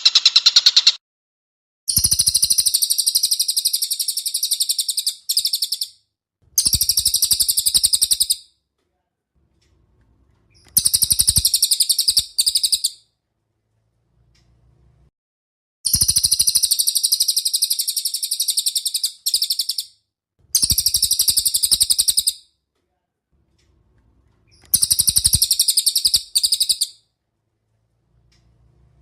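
Songbird singing a masteran recording: about six rapid, high-pitched trilled phrases, each two to four seconds long, separated by short silences. A different, lower call stops about a second in.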